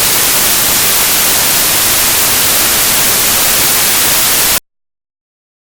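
Loud, steady static hiss, strongest in the treble, that cuts off abruptly to dead silence about four and a half seconds in.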